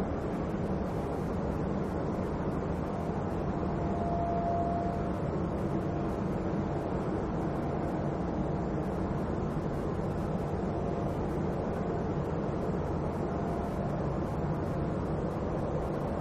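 Jet airliner engines running steadily at an airport: a continuous low rumble with a faint thin whine that comes through most clearly about four seconds in.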